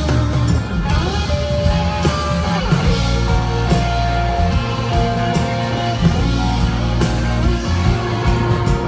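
A live rock band plays an instrumental passage: guitar notes, some held and some bending in pitch, over bass and a steady drum beat.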